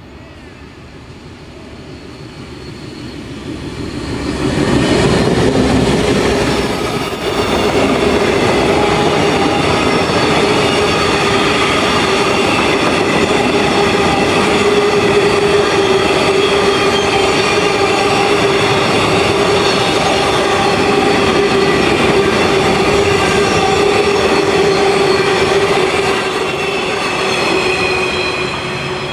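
Freight train approaching and then rolling past close by, growing louder over the first few seconds and then holding steady as the wagons go by, with a steady ringing tone from the wheels on the rails.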